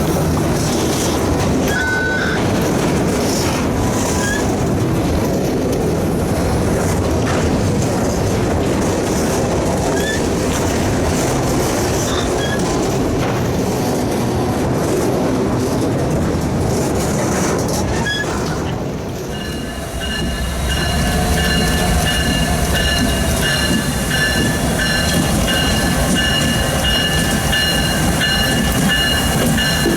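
Freight train rolling past with a loud, steady rumble of wheels on rail. A short dip comes about two-thirds through, after which a high, steady wheel squeal rings out over the rumble.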